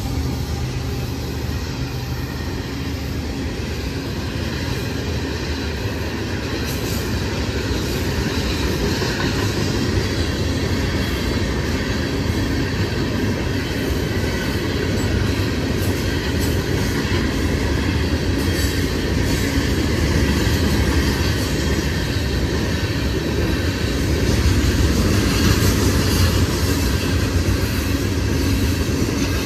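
A train rolling past on the rails: a steady loud rumble of wheels on track that swells a little past the middle and again near the end.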